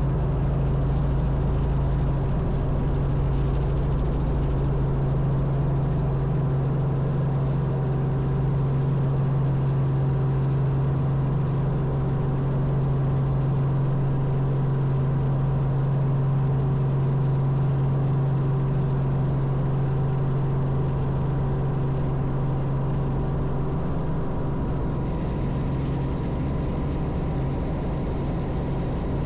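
Robinson R44 helicopter in flight: a steady drone of its piston engine and rotor, with a strong low hum and a fainter high whine running through it. About 25 seconds in the sound softens a little.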